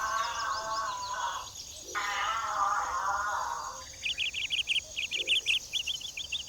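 Two long, wavering animal calls, then from about four seconds in a rapid series of high chirps, about five a second, like birds or insects in the bush.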